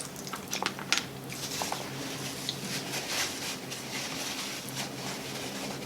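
Mouth sounds of eating spaghetti: a few sharp wet clicks about a second in, then soft, irregular chewing noises, over a faint steady hum.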